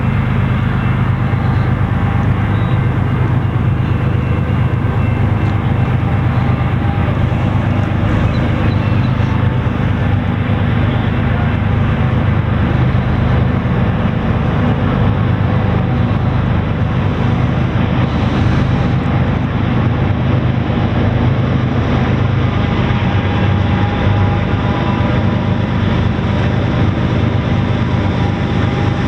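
Long freight train passing at about 25 mph: a loud, steady drone of diesel locomotives and rolling freight cars on the rails.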